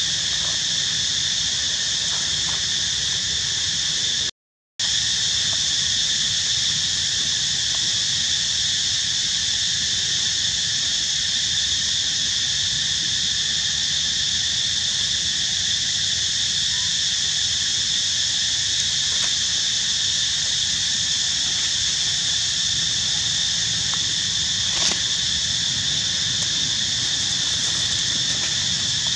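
Steady, unbroken chorus of insects in high, even bands, with a half-second cutout about four seconds in.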